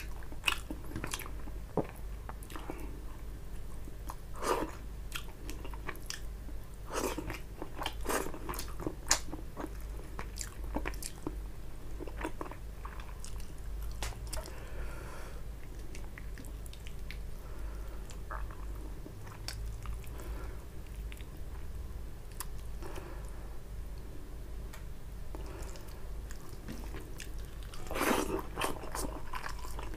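Close-miked chewing of a mouthful of rice and tilapia fish curry, with irregular short mouth clicks. A louder run of clicks comes near the end as another handful is taken into the mouth.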